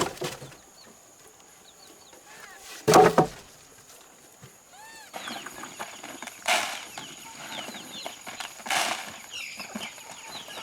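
Two loud sharp knocks, the first at the start and the second about three seconds in. Then chickens give short rising-and-falling calls, with scratchy rustling among them, over a thin steady high insect buzz.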